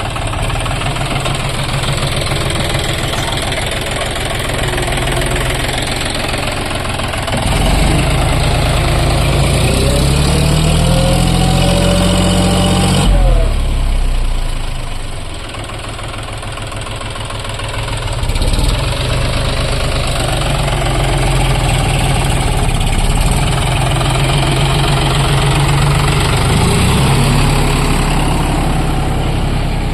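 John Deere tractor's diesel engine working hard, pulling soil in a karaha scraper. Its revs climb about eight seconds in, drop suddenly a few seconds later, then rise and fall again.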